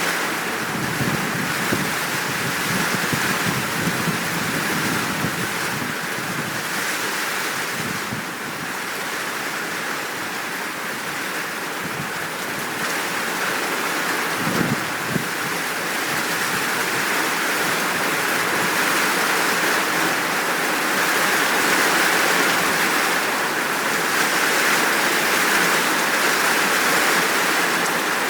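Steady heavy rain pouring down, with low rumbles of distant thunder in the first few seconds and again briefly about halfway through.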